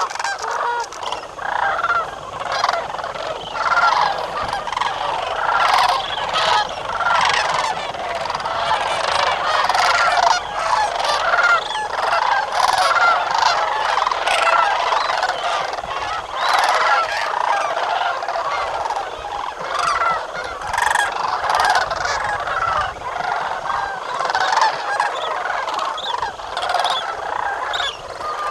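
A large flock of birds calling all at once, a dense, unbroken chorus of many overlapping honking calls.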